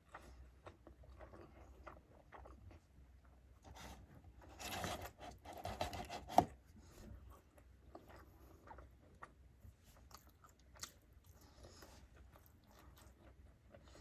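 Close-miked chewing and biting of a burger and fries, with many small wet clicks. About four and a half seconds in comes a louder crunching stretch of about two seconds that ends in one sharp click.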